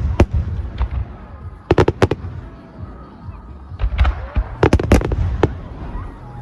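Aerial firework shells bursting in clusters of sharp bangs over a low rumble: one bang at the start, a quick group of three to four about two seconds in, and another run of bangs from about four to five and a half seconds in.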